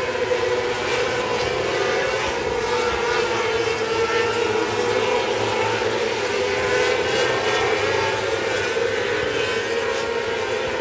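Racing engine running hard and steadily, its note rising and falling a little as it goes through the race.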